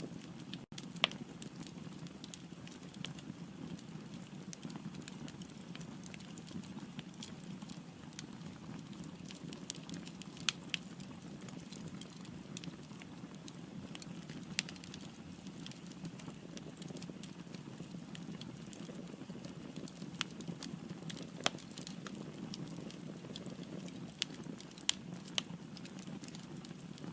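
Firewood burning in a fireplace: a steady low rumble of flame, with sharp pops and crackles at irregular intervals.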